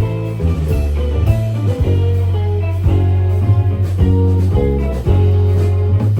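A rock band playing live, with electric guitar over held bass notes.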